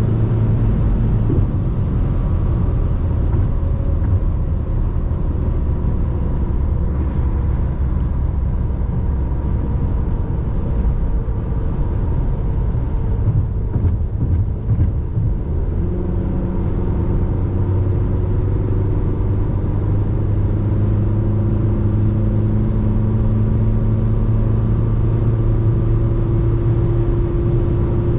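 RAM Rampage Rebel's 2.2 turbo diesel engine running steadily under way, over constant road noise. Its hum shifts about halfway through and rises slightly in pitch.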